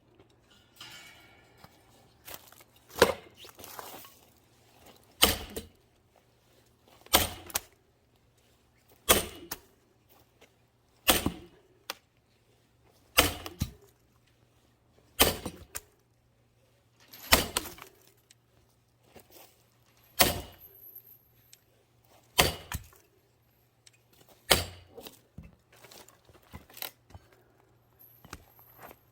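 Hand splitting of a firewood log with twisted grain: about a dozen heavy blows landing roughly every two seconds, with a few lighter knocks between them. The twisted grain keeps the log from splitting easily, so it takes repeated hard strikes.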